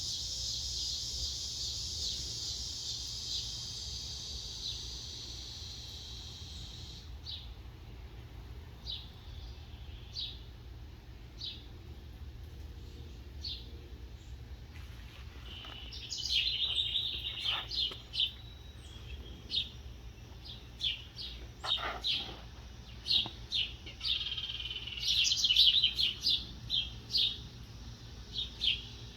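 Small birds chirping: a few separate high chirps at first, then busier twittering from about halfway. A steady high insect trill runs underneath for the first several seconds and then cuts off.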